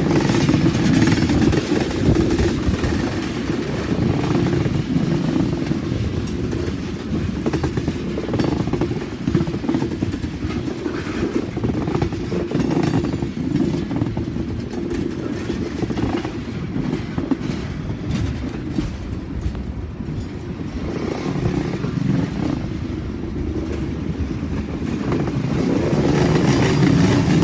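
Cars of a long freight train rolling past: a steady rumble of steel wheels on rail with continual clatter.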